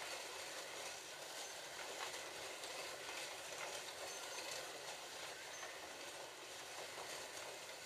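Several Scalextric slot cars running laps together on the track, a steady whirring of their small electric motors and guides running in the slots.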